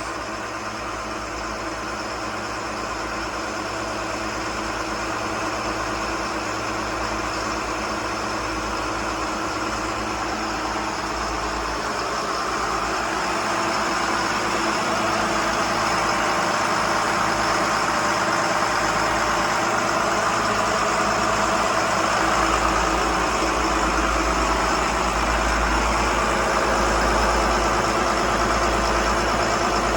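The Bayliner 4788 motor yacht's engines running under way during a sea trial: a steady multi-tone drone that grows gradually louder over the first dozen seconds or so, with the deep rumble strengthening about two-thirds of the way through.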